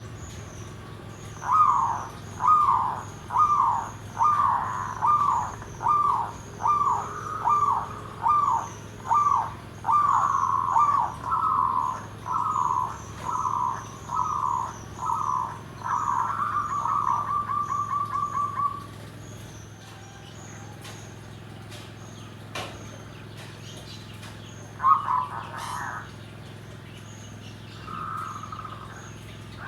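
Zebra dove (perkutut) cooing: a long series of short repeated coos, a little over one a second, ending in a rolling trill about 19 s in, then two short coos later. A smaller bird chirps high and thin throughout.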